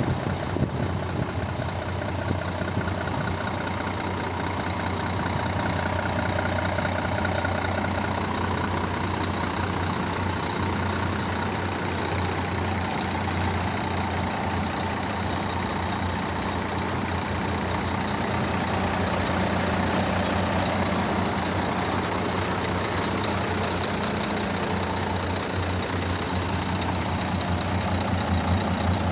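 Scania G420 truck's six-cylinder diesel engine idling steadily.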